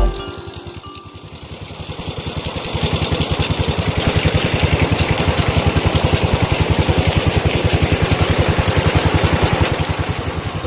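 16 HP Petter-type single-cylinder diesel engine running with a steady, even beat of firing strokes. It grows louder over the first couple of seconds, then holds steady.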